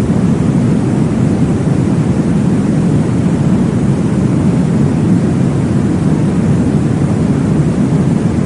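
Steady, deep whooshing noise with no breaks, strongest in the low range: a baby sleep-noise track meant to imitate the whoosh of blood flow heard in the womb.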